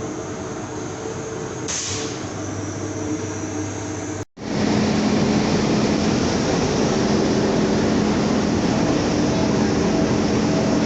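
Steady noise of a moving vehicle heard from inside, with a low hum under it. About four seconds in it cuts out abruptly, then comes back louder and stays steady.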